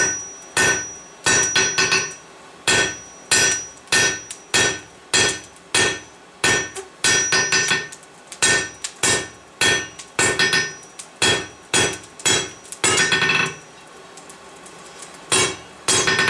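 Hand hammer striking a hot steel bar on an anvil, about two blows a second, each with a short metallic ring, while the bar is drawn out thinner. The blows pause for about two seconds near the end, then resume.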